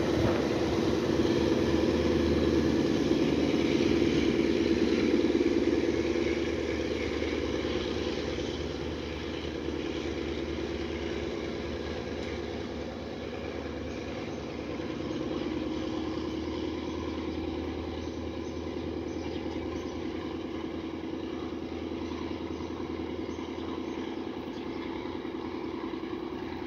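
Diesel-electric locomotive of the TCDD DE 24000 class pulling a passenger train away, with its engine drone and running noise. It fades over the first several seconds and then holds as a quieter, steady hum.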